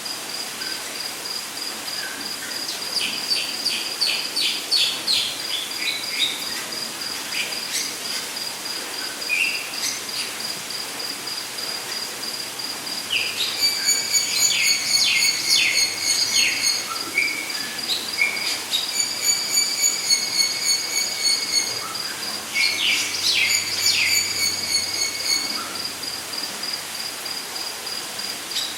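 Rainforest ambience: an insect, cricket-like, trills steadily and high-pitched throughout, while birds call in several bouts of quick repeated notes and held whistles, the loudest in the middle of the stretch.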